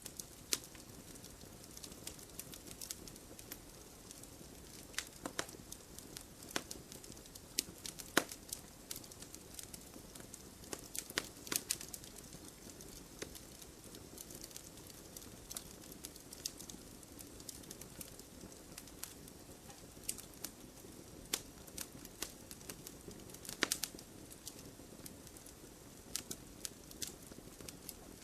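Wood fire crackling in a fireplace: irregular sharp pops and snaps, a few louder than the rest, over a steady soft hiss of burning logs.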